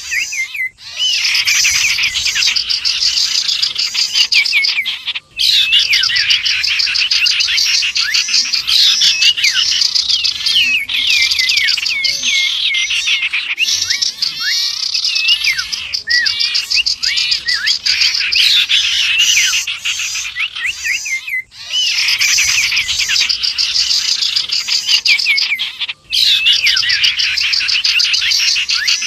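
Bird-lure recording of common iora (cipoh) song mixed with other small birds: a dense, continuous chatter of high-pitched rapid chirps and trills. It breaks off briefly four times, about a second in, around five seconds, and twice more in the last third.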